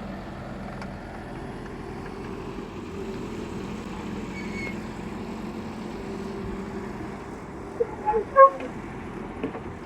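Excavator's diesel engine running steadily, with a cluster of short vehicle-horn toots about eight seconds in, the last one the loudest.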